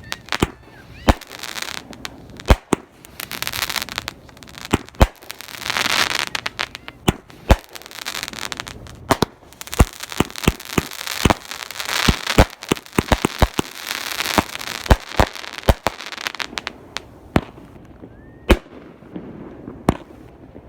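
Consumer fireworks going off: many sharp bangs at irregular intervals, mixed with several stretches of crackling hiss, thinning to a few scattered bangs over the last few seconds.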